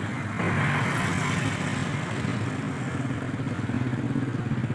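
A motor vehicle's engine running with a steady low drone, slightly louder from about half a second in.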